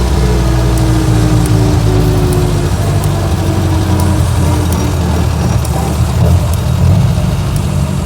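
1924 Austin Seven's small four-cylinder side-valve engine running as the car is driven, heard from inside the car at a steady level. A faint whine eases down in pitch over the first few seconds.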